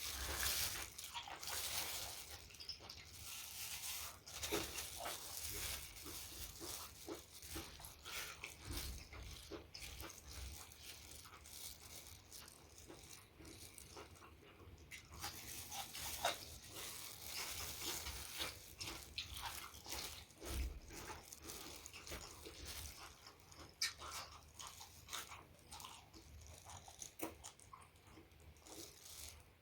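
Close-up mouth sounds of a person eating: steady chewing with wet smacks, crunches and clicks.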